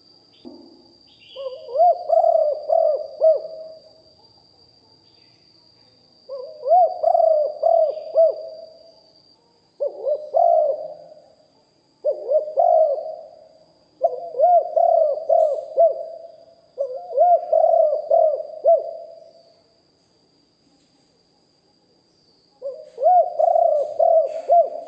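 Spotted dove calling: a male's cooing song repeated in about seven phrases of quick, rounded coo notes, with pauses of a second or more between them and a longer gap a little after the middle.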